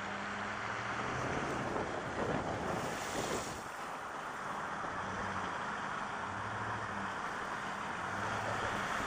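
Steady rushing splash and hiss of car tyres ploughing through floodwater on the road, with a louder burst of spray about three seconds in and a low engine hum underneath.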